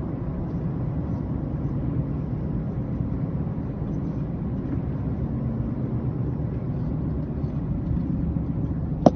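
Steady low rumble of a vehicle driving on the road. There is one sharp click near the end.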